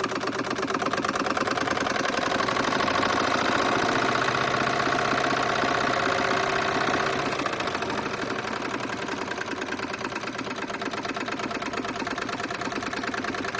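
Wilesco D32 model steam engine running steadily with a fast, even chuffing beat. It is a little louder for the first seven seconds or so, then slightly quieter. Its electric heater is turned down to a lower voltage, so it runs smoothly instead of boiling over.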